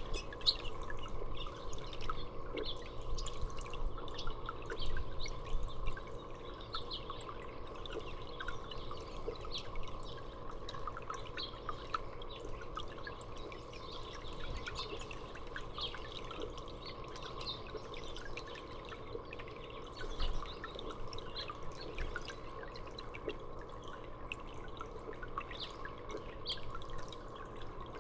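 Water dripping and trickling steadily into a birdbath, a continuous patter of small drips.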